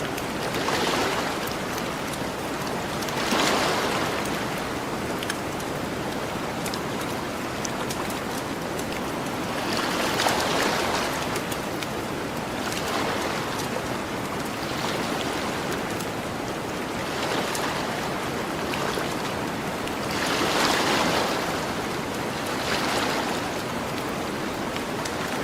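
Gentle ocean waves washing onto a beach, the surf hiss swelling every few seconds as each wave breaks and runs up the shore. Faint small crackles from a campfire are scattered through it.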